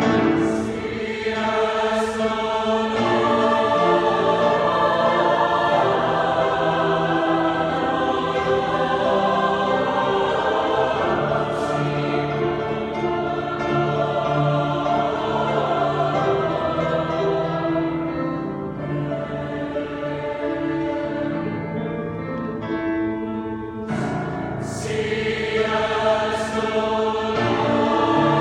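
A choir singing in several parts, holding long sustained chords that shift slowly, with a few crisp sibilant consonants cutting through.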